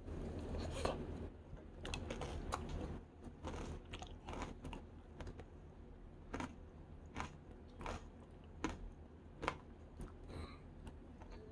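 Close-up mouth sounds of eating injeolmi bingsu: chewing with sharp crunches, dense for the first few seconds, then single crunches about once a second.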